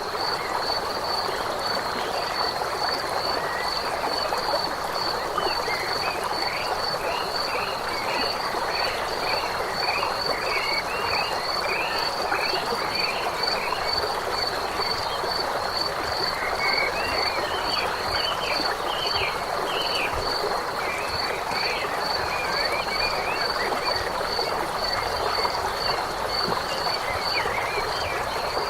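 Dense chorus of croaking frogs, with a high call repeating steadily throughout and runs of short chirps in two stretches, around a quarter and two-thirds of the way through.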